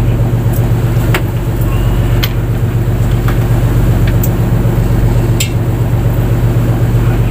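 Fishing boat's engine running steadily at a constant pitch, with a few sharp clicks or knocks scattered through it.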